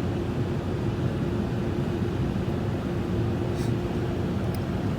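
Automatic car wash machinery heard from inside the car: a steady low rumble of the wash equipment with a constant motor hum that stops about four seconds in, and a brief hiss near the end.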